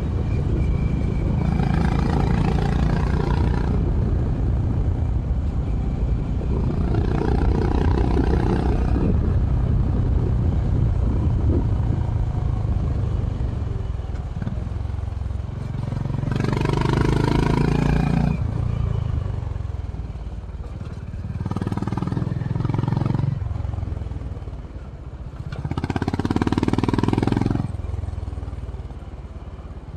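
Honda H'ness CB350 RS single-cylinder engine running through its stock exhaust while riding, heard onboard. Five times the sound swells louder for a second or two before settling back.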